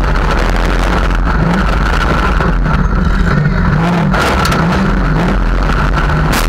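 Demolition derby car's engine, heard up close through a hood-mounted GoPro, revving up and down again and again. A couple of sharp knocks come about four seconds in and near the end.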